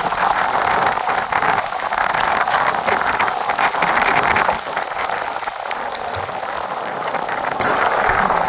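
Heavy typhoon rain driven by strong wind: a loud, dense, steady hiss with many small drop hits on surfaces, easing slightly about halfway through.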